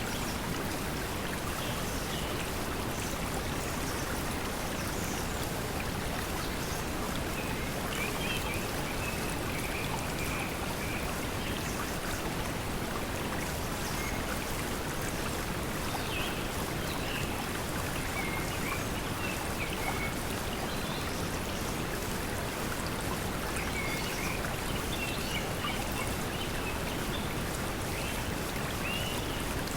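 Steady pink noise mixed with a flowing stream, with short bird chirps in the middle and again near the end.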